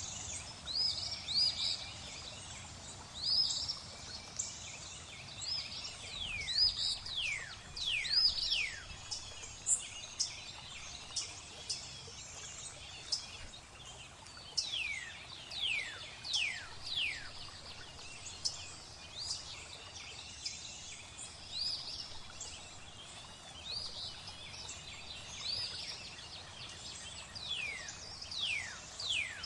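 Birds calling with many short, high notes, several of them sliding steeply down in pitch, over a faint steady hiss of flowing water.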